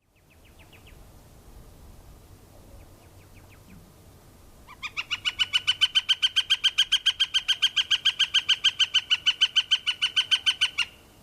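A bird calling: after two faint brief trills, a loud rapid series of short, evenly spaced pitched notes, about seven a second, starts a little before halfway and runs for about six seconds before stopping abruptly.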